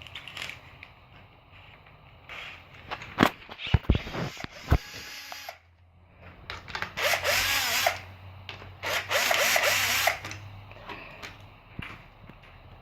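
Cordless drill-driver running in two bursts, about seven and nine seconds in, its whine rising and falling in pitch as it works the bolts of a bicycle kickstand loose. A few sharp knocks of tools on metal come before.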